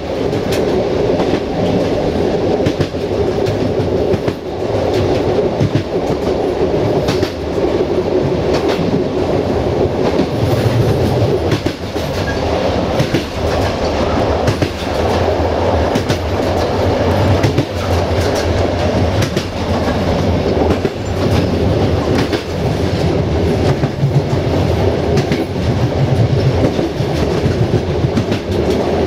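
A passenger train's wheels running along the track, heard from the rear of the train: a steady rumble with irregular clickety-clack over rail joints.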